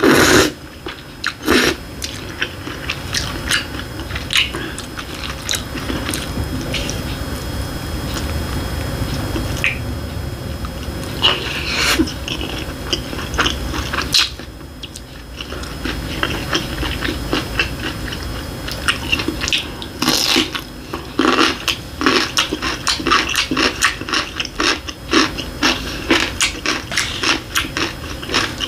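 Close-up mouth sounds of a person eating: tomato ramen noodles slurped and chewed, with many short wet clicks of chewing. The chewing gets busier and faster in the last third.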